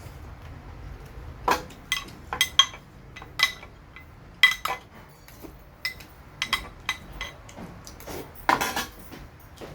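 Cutlery clinking against dishes during a meal: about a dozen irregular sharp clinks with a short ringing tone, starting about a second and a half in.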